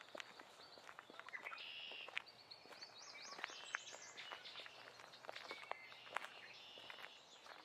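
Birds singing in a forest, with chirps and a quick run of up-and-down notes about halfway through, over scattered soft footsteps on the forest floor.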